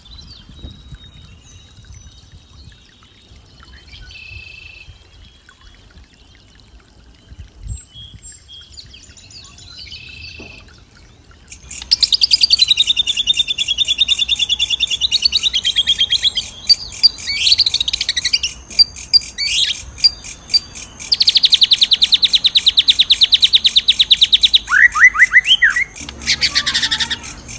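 Songbirds chirping and singing. Faint high calls at first, then about twelve seconds in much louder song: a sweeping warble, a fast even trill lasting several seconds, and a few quick falling notes.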